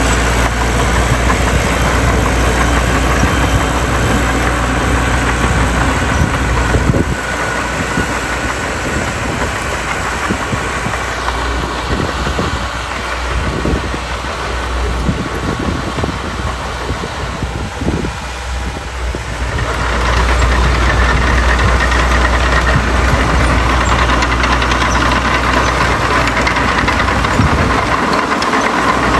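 Heavy diesel engine of earthmoving equipment running steadily. About seven seconds in it drops to a quieter, more uneven sound, and about twenty seconds in it comes back louder and steady.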